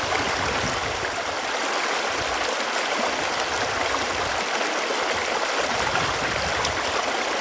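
Running water, a steady, even rushing flow.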